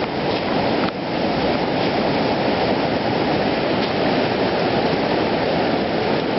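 Hurricane floodwater rushing loudly and steadily over flooded ground, with a brief drop about a second in.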